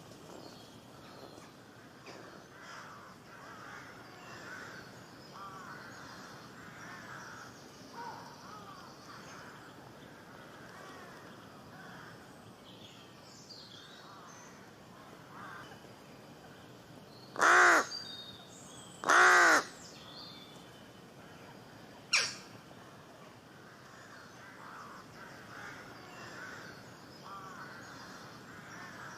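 Two loud, harsh crow caws about a second and a half apart, then a short sharp call, over faint, continual chirping of distant small birds.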